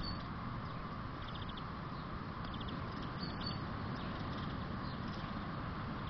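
A few faint, short, high garden-bird calls, some as quick rattling runs, over a steady outdoor hiss.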